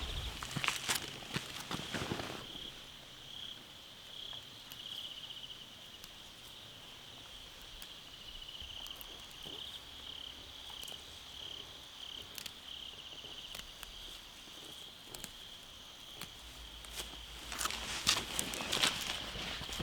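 Insects chirping in repeated pulsed trills throughout, with a cluster of knocks and clatter in the first two seconds and again near the end.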